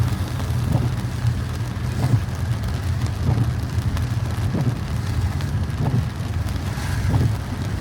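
An SUV driving through flood water in heavy rain: a steady low rumble of engine and road noise under the hiss of rain on the vehicle, with irregular short thuds about once a second.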